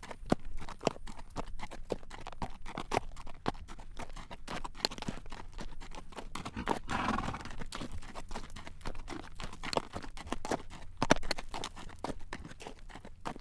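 Horse's shod hooves clip-clopping on a road as it walks pulling a carriage, a steady run of sharp clacks. A brief, noisier sound rises and fades about halfway through.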